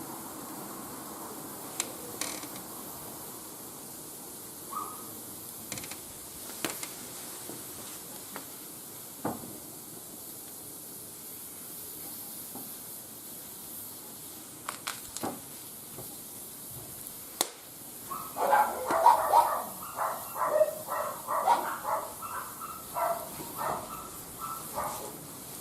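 Wood fire burning in a barbecue grill, with a steady hiss and scattered sharp crackling pops. About three-quarters of the way in, a denser run of louder, choppy sounds takes over.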